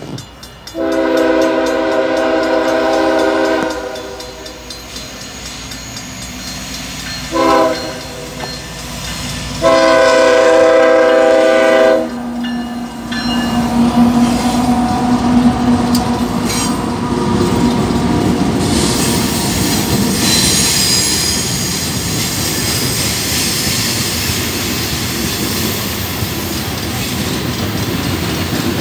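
Freight locomotive air horn sounding three blasts, long, short, long, as the train nears the level crossing, followed by BNSF diesel locomotives rumbling past and then a string of coal hopper cars rolling by with steady wheel-on-rail clatter.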